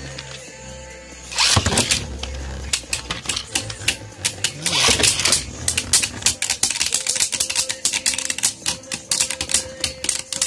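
Beyblade Burst spinning tops launched with Sparking string launchers about a second and a half in, then spinning and clashing in a plastic stadium: a fast, irregular run of sharp plastic clicks as the tops hit each other and the stadium wall.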